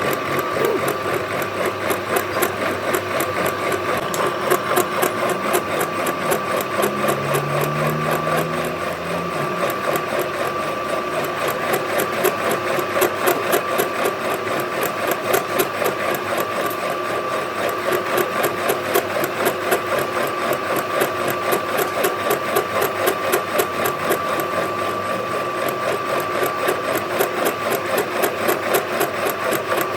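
Metalworking machine tool running steadily with a fast, even clatter and a constant high whine.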